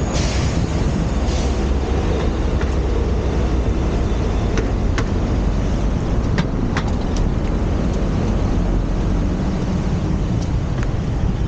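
Steady low rumble of wind on the microphone and road noise while riding a bicycle, with a few brief faint clicks about halfway through.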